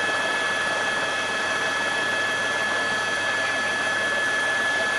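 Steady drone of an aircraft's turboprop engines, with a constant high whine over an even rush of noise.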